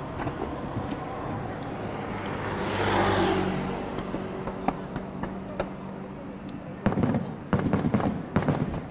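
Aerial fireworks cracking and popping in a dense rapid cluster from about seven seconds in, over a steady outdoor background. A swelling whoosh that falls in pitch rises and fades about three seconds in.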